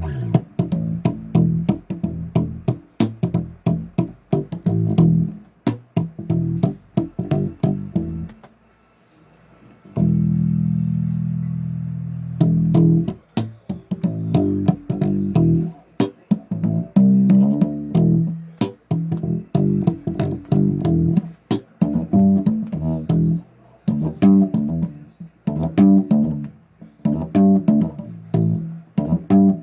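Bass guitar played solo: quick runs of short plucked notes with sharp, clicky attacks. About eight seconds in there is a brief pause, then one long note rings out and fades before the quick notes start again.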